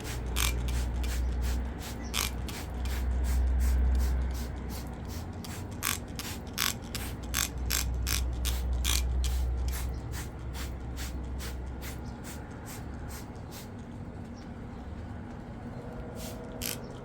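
A trigger spray bottle of dish-soap cleaner being squirted over and over in quick succession, about two or three squirts a second, with a pause near the end, over a steady low rumble.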